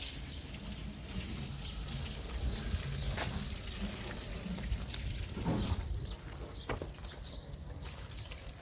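Livestock calling faintly over a low steady rumble, with scattered light knocks.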